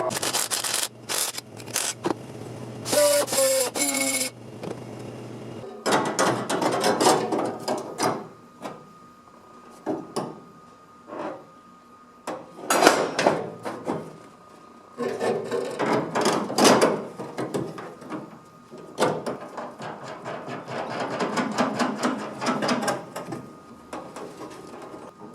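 Hand-tool work on a small sheet-steel repair panel: irregular runs of knocks and scraping, in bursts of a second or two with short pauses between.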